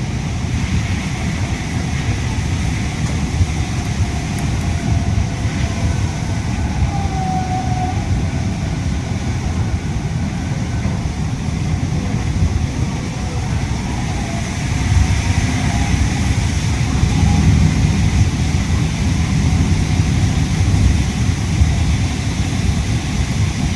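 Yui Rail monorail running, heard from inside the car: a steady low rumble mixed with air-conditioning noise, with a faint whine that rises and falls. The rumble grows louder about two-thirds of the way through.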